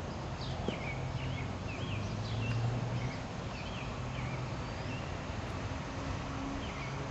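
Small birds chirping in quick short calls, many in the first few seconds and again near the end, over a steady low hum.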